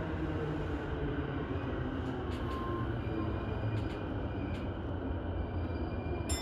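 Keihin-Tohoku Line E233-1000 series electric train running: a steady low rumble of wheels on rail with a few light clicks, and one sharp click near the end.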